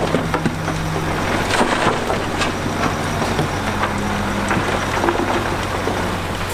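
Heavy diesel construction machinery running steadily, its engine note stepping up a little past halfway, with frequent scattered knocks and clatter of rock and dirt.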